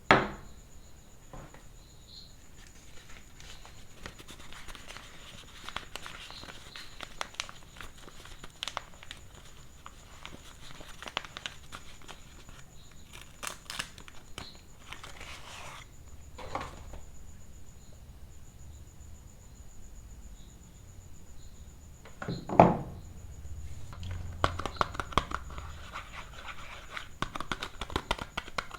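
Soap wrappers crinkling and tearing as bars of soap are unwrapped by hand, with scattered light taps and one louder knock about two-thirds of the way through.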